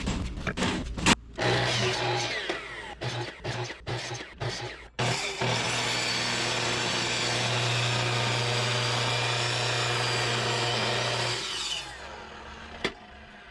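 Motor-driven power tool working firewood: short stop-start bursts, then about six seconds of steady running under load that stops near the end.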